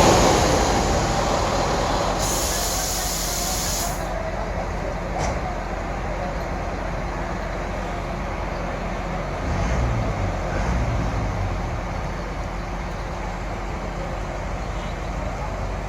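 Heavy diesel engine running steadily at low revs, with a burst of compressed-air hiss that cuts off sharply about four seconds in.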